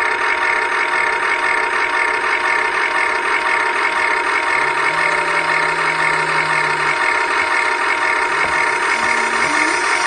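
Huina 1580 RC excavator's electric motors and metal gearboxes whining steadily as it works, with short lower tones coming in about halfway through and again near the end as other functions are driven.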